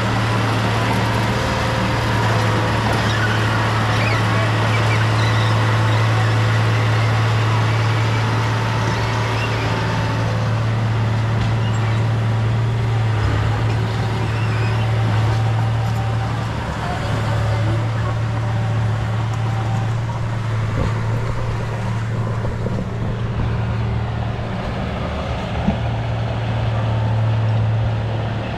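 Diesel engine of a heavy earthmoving machine running steadily under work, a low drone that dips briefly a few times.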